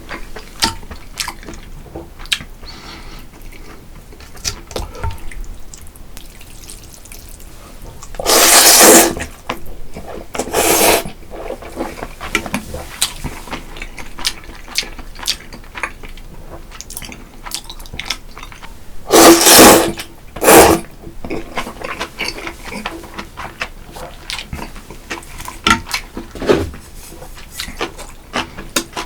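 Close-up eating sounds of a person eating spicy seafood noodle soup (jjamppong): steady small chewing and lip-smacking clicks, with loud slurps of noodles and broth in two pairs, about 8 seconds in and again about 19 seconds in.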